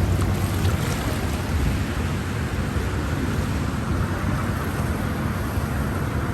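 Steady wind rumbling on the microphone over the wash of floodwater around a paddleboard.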